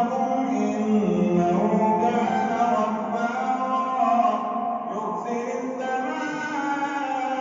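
A man reciting the Qur'an in a slow, melodic chant, holding long notes that bend slowly in pitch.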